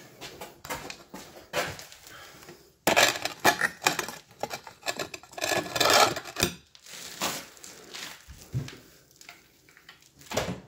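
Clinking, clattering and knocking of small metal hardware and tools being handled during cabinet installation, busiest in the middle.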